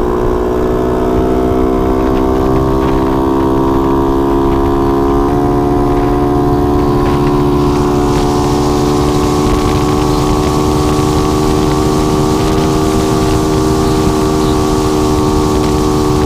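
Honda CT70 mini bike engine running steadily under way, its pitch rising slightly, with a small step down about five seconds in. A rushing noise builds in behind it from about seven seconds.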